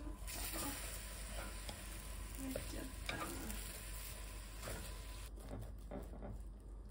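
Buns sizzling as they fry in oil in a small rectangular frying pan, turned over with wooden chopsticks. The sizzling stops about five seconds in, and a few light clicks follow.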